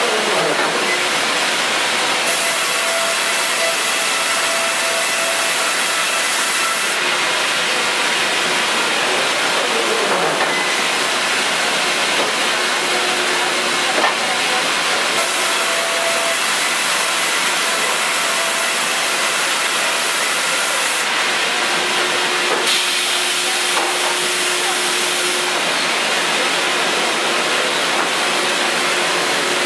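Steady, loud hissing machinery noise with faint hums that come and go, and a brief falling whine twice.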